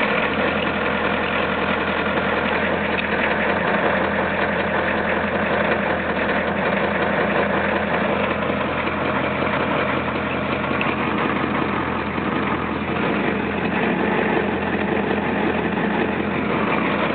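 Ford 7.3 IDI V8 diesel idling steadily just after a cold start at freezing temperature.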